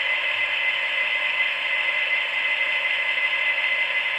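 Model diesel-locomotive sound from QSI sound decoders in HO-scale GP40-2 locomotives creeping at speed step 1: the simulated EMD diesel running at low throttle through the small onboard speakers, a steady tinny rumble with a thin steady high tone over it.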